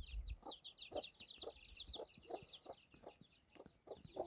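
Chickens clucking in short, evenly repeated calls, about three a second, with a quick high chirping over them.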